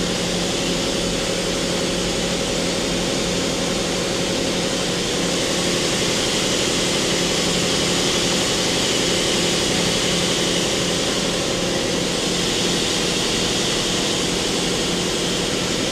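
Mori Seiki MT2000SZ CNC mill-turn center running its main spindle, a steady machine hum made of several low tones under a constant hiss.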